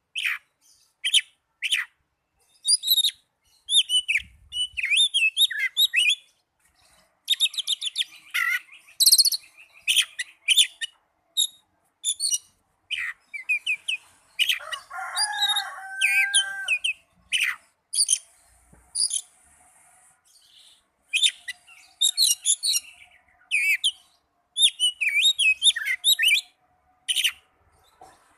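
Oriental magpie-robin (kacer) singing: a run of varied whistled phrases and fast high trills with short pauses between them, and a harsher, lower passage about halfway through.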